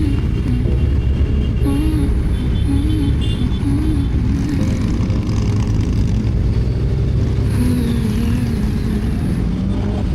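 Motorcycle engine running at a steady pace with a heavy low rumble, under faint background music.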